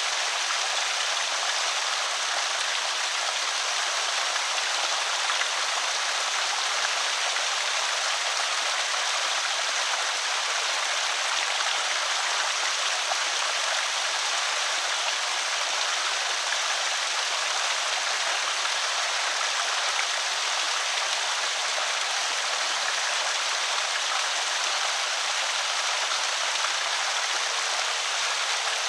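Water running steadily over a small creek spillway, an even splashing rush with no breaks.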